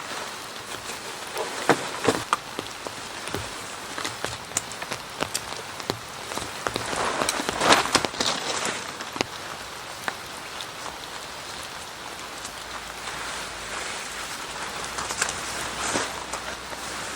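Steady rain falling, with many heavy drops striking close by as sharp taps, and a denser, louder spell of drops about halfway through.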